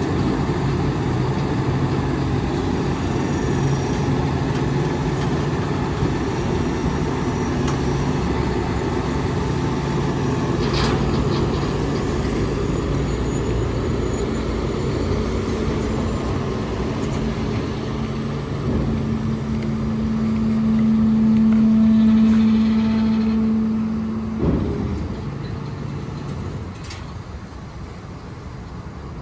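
Freightliner M2 garbage truck's diesel engine running steadily. About halfway through a steady low hum builds over the engine and grows louder, then cuts off with a knock, after which the running is quieter.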